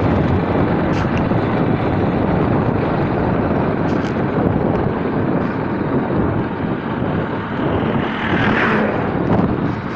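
Steady wind rush buffeting the microphone over the running of a motorcycle on the move.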